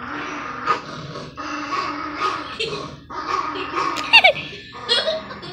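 Pet dog growling in long low stretches with short breaks for breath, with a couple of brief high falling whines about four seconds in and again near the end.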